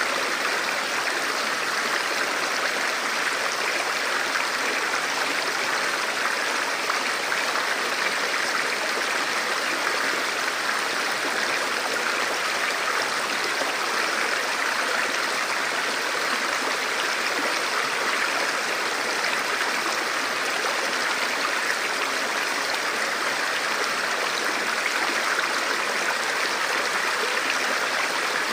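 A forest river or stream flowing steadily over rocks, a continuous even rush of water with no changes.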